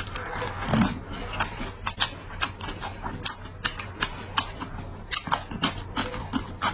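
A person eating close to the microphone: irregular wet chewing and lip-smacking clicks, a few per second.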